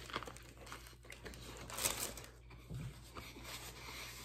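Soft chewing of a mouthful of sub sandwich, with a brief crinkle of paper about two seconds in.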